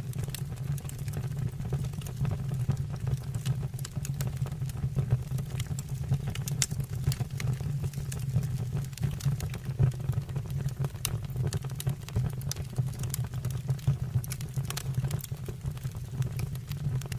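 Fire burning in a fireplace, crackling with many short sharp pops and snaps over a steady low rumble.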